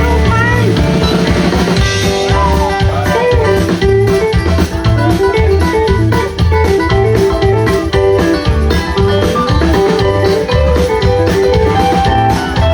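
Live rock band playing an instrumental passage: a guitar line over bass and drum kit, with a steady beat.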